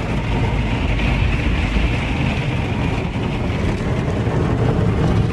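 Automatic car wash heard from inside the car's cabin: a steady rush of water spray and machinery running against the car body.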